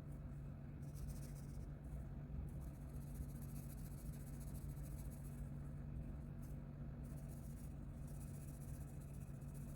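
Coloring on paper: a coloring tool's tip scratching back and forth across the page in stretches of a second or several, with short pauses between, over a steady low hum.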